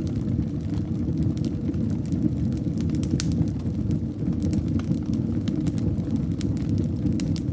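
Wood fire in a fireplace burning steadily: a low rumble of flames with scattered sharp crackles and pops, several a second.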